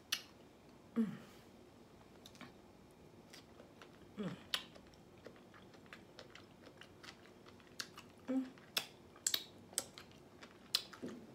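Close-up chewing of crisp raw vegetables: scattered sharp crunches and clicks of the mouth, with a few short low hums in between.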